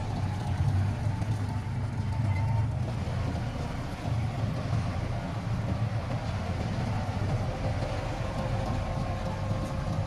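Heavy diesel engine of earthmoving machinery running steadily under load, with a deep, even hum.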